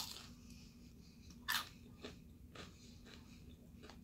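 A person biting into and chewing a crispy fried cream cheese wonton: a crunch at the first bite, a louder crunch about a second and a half in, then quieter chewing.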